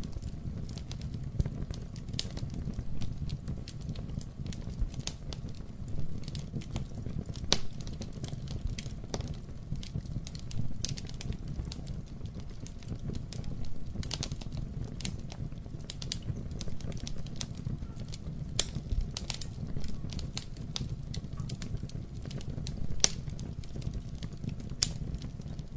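Campfire burning: a steady low rumble of flames with irregular sharp crackles and pops from the burning wood, a few of them louder, sprinkled through.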